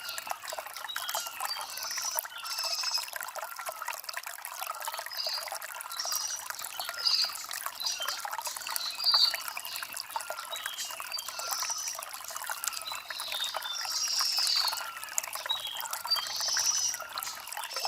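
Shallow stream trickling over river stones in a steady, thin flow, with birds chirping in short high calls every second or two.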